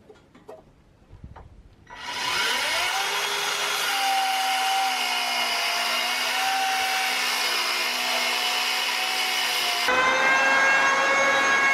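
An electric power tool working wood: its motor starts about two seconds in, the whine rising as it spins up, then runs steadily. Near the end the sound switches abruptly to a different, higher-pitched whine.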